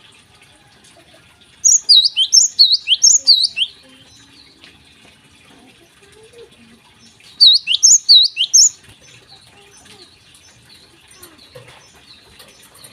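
Java sparrow singing: two loud bursts of rapid, sharp, high chirping notes, the first about two seconds in and the second about seven seconds in, with faint chirps between them.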